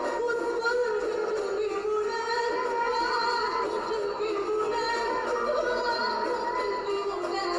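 A woman singing long, wavering, ornamented notes over a musical accompaniment.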